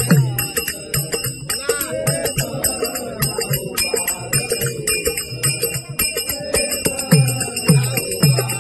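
A devotional abhang bhajan played and sung by a group: small hand cymbals clash in a quick steady rhythm over deep hand-drum strokes that fall in pitch, with voices singing the tune. The bass strokes come out strongest near the end.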